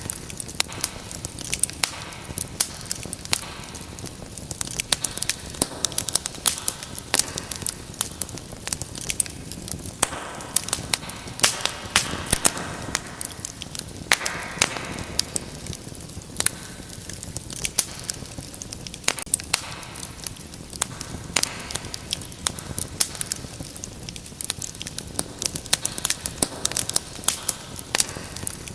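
Wood fire in a fireplace crackling, with many sharp pops every second over the steady rush of the flames and a brief hiss about halfway through.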